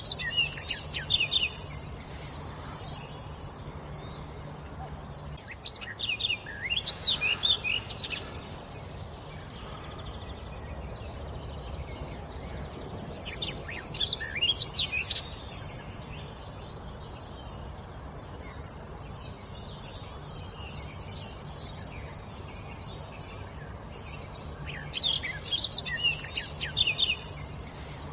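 A songbird singing in short phrases of quick, high, chirping notes, each phrase about two seconds long, four times with long pauses between. A faint steady low hum runs underneath.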